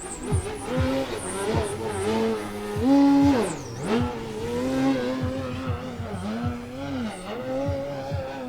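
Electric motor and propeller of a 60-inch Extra NG aerobatic RC airplane, the pitch rising and falling with repeated throttle changes; it is loudest about three seconds in, then drops sharply in pitch as the plane passes.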